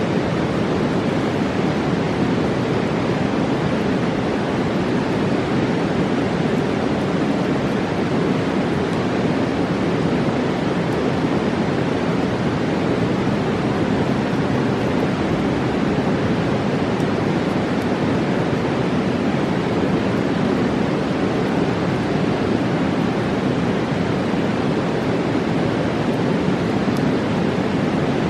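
Fast mountain river rushing steadily: an even, unbroken roar of water.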